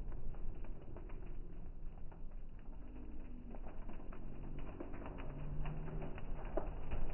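Fireworks crackling: many small scattered pops and crackles over a steady low rumble.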